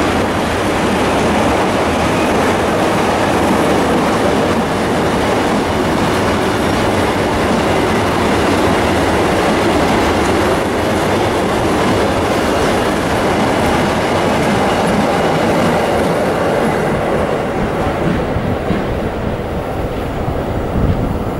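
Freight train of loaded double-deck car-carrier wagons rolling past, a steady rumble of wheels on the rails. It eases off near the end as the last wagons go by.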